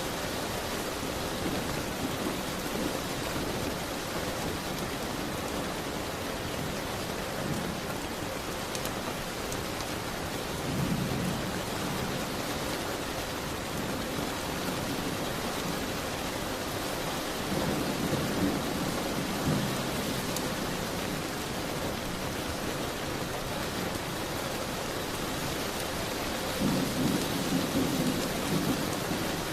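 Steady rain falling, with three low rumbles of thunder, the longest in the middle and another near the end.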